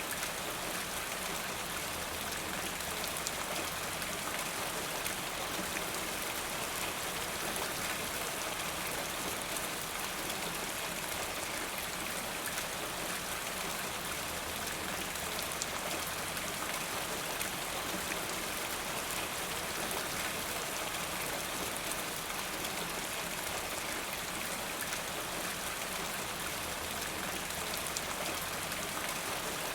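Steady rain falling in a forest, an even hiss of rain with many small drops pattering on leaves and surfaces.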